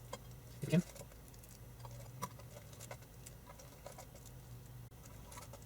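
Faint, scattered small clicks and taps of parts being handled as a piece is popped back onto a small car amplifier during reassembly.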